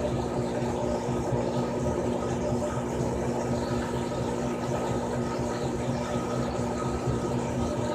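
Frigidaire Gallery Series top-load washing machine running, a steady, even motor hum with no break in it.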